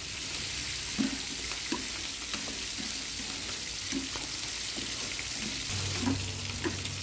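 Squid and pineapple sizzling in a hot frying pan while being stir-fried with wooden chopsticks, a steady hiss with a few light taps of the chopsticks against the pan.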